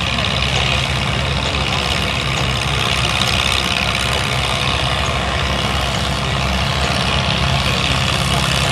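Tractor engine running steadily at an even speed, with no revving up or down.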